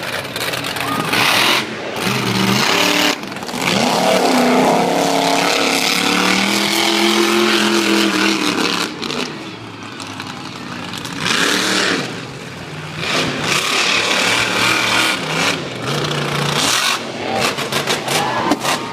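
Monster truck engine revving hard in repeated surges, its pitch rising and falling and dropping away briefly between bursts.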